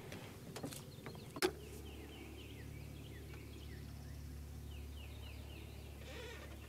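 Faint bird calls, a scatter of short falling chirps, over a steady low hum. A sharp click comes about a second and a half in, just as the hum begins.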